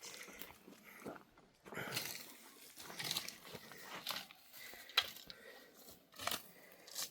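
Faint, irregular crunching and scraping, with scattered sharp clicks, the sharpest about five seconds in.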